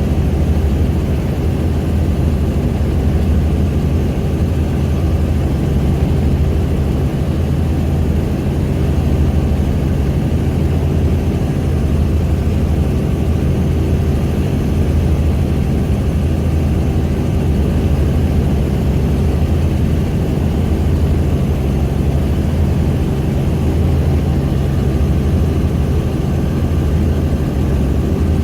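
Helicopter engine and rotor running steadily, heard from on board: an even, unbroken drone with a strong low hum.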